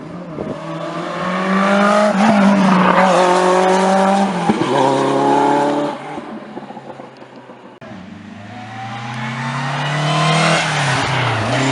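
Historic rally car engines at full throttle on a special stage. One car's revs climb and drop back with gear changes as it passes, then fade. About eight seconds in, a second car comes in, getting louder as it revs up.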